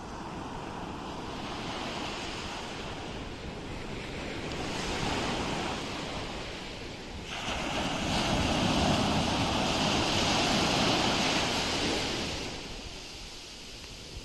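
Ocean waves breaking on a shore. A smaller wave swells and recedes, then about halfway through a larger wave breaks suddenly and washes in loudly for several seconds before drawing back.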